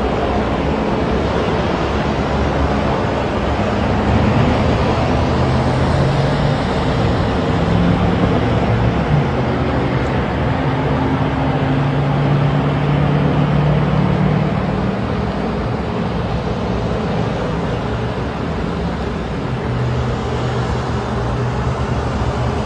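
A motor vehicle running: steady engine hum and road noise whose low pitch shifts slightly up and down.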